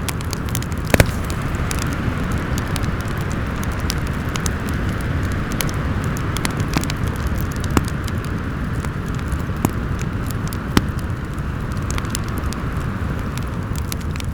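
Fireplace crackling with scattered sharp pops, the loudest about a second in, over a steady rumble of howling wind.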